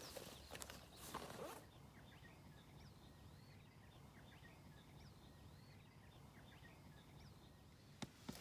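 Rustling and crackling handling noise for the first second and a half, then faint high chirping calls of small birds repeating over several seconds, with one sharp click near the end.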